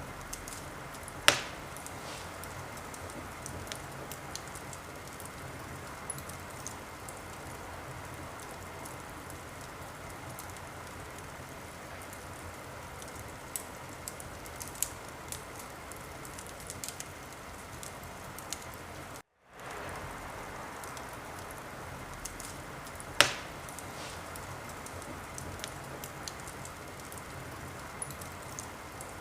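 Wood fire burning in a fireplace: a steady hiss with scattered small crackles, and two loud pops, one about a second in and one near the end. The sound cuts out completely for a moment about two-thirds of the way through.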